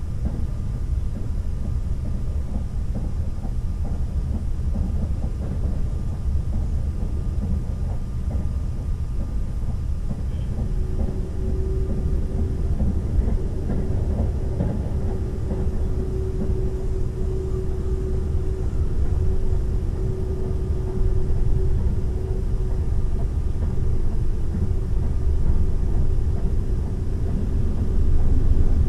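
Running noise inside a Seibu 001 series Laview limited express electric train: a steady low rumble of wheels on rail. A steady hum joins in for a stretch in the middle, and the noise grows louder near the end.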